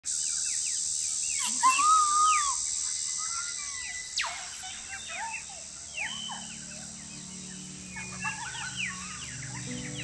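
Several birds calling, with chirps, whistles and quick pitch sweeps over a steady high hiss. The loudest is an arching call about two seconds in, and a sharp falling sweep follows about four seconds in. Soft music with low held notes comes in about six seconds in.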